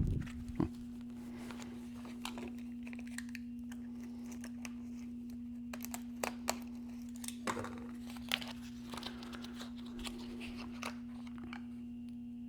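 Small wheel touch-up paint kit being unpacked by hand: scattered crinkling, tearing and clicking of packaging, over a steady low hum.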